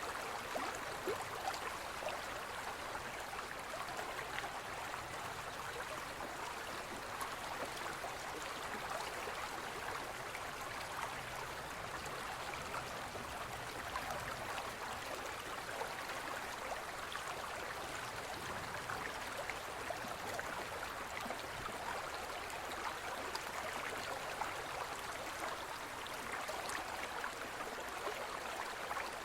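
Forest stream flowing over rocks: a steady rushing and babbling of water, with many small splashes and gurgles.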